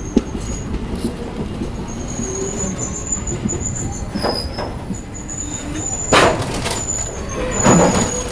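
Passenger train rolling on the rails with a steady rumble and a thin, high squeal that comes and goes. Two louder rushing bursts come about six and eight seconds in.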